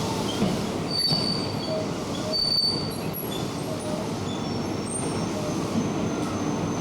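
Electric commuter train moving along a station platform, with a steady rumble of wheels on track and brief high-pitched wheel squeals, the loudest about a second and two and a half seconds in.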